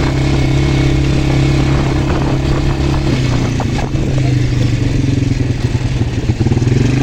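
Quad bike engine running under way, its note dropping a little about three seconds in and rising again near the end, with a few rattling knocks around the middle as it goes over the road.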